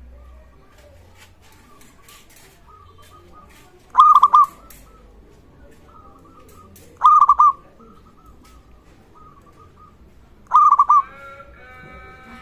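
Zebra dove (perkutut) calling: three loud, quick runs of coos, each about half a second long and about three seconds apart, over soft continuous cooing.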